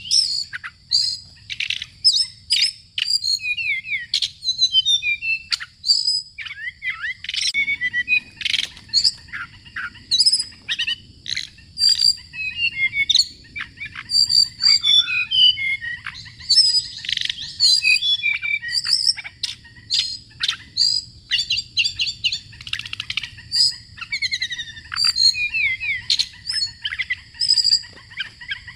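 Bird song: a continuous, busy run of rapid chirps, trills and whistled notes with no real pause. A faint low background rumble gets slightly louder about seven seconds in.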